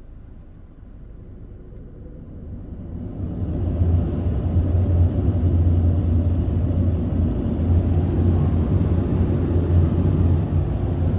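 Ryko SoftGloss XS 2 in-bay automatic car wash machine running with a low, steady rumble that builds up over the first few seconds and then holds.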